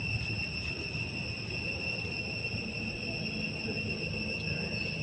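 Insects chirring in one steady high tone, over a low, rumbling background.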